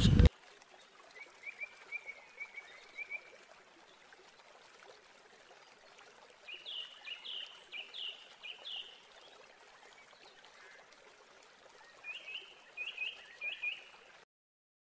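A bird calling in three short runs of quick, high chirps, over a faint steady hiss; it all cuts off suddenly near the end.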